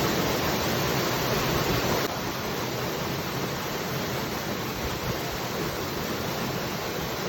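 Waterfall: a steady, dense rush of falling water that drops a little in level about two seconds in.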